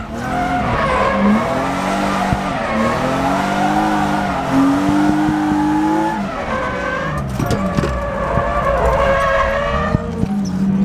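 The BMW E36 M3's inline-six S52 engine revving up and down hard, with tyre squeal, while drifting, heard from inside the cabin.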